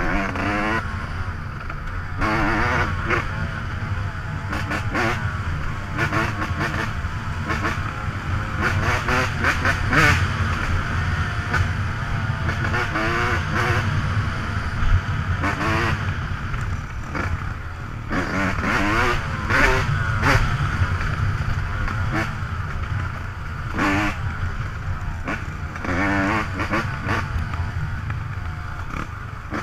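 Dirt bike engine running close by, its pitch rising and falling again and again as the throttle is worked, over a steady low rumble.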